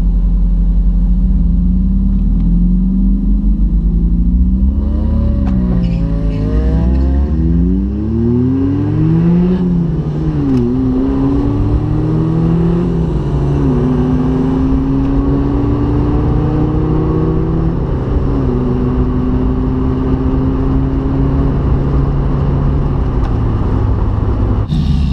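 1990 Mazda Miata's 1.6-litre four-cylinder running with an open exhaust, the catback removed from the catalytic converter back. It accelerates hard through the gears, engine pitch climbing and dropping at each of about four upshifts, with the longest pull ending after 18 seconds, then settles into steady cruising.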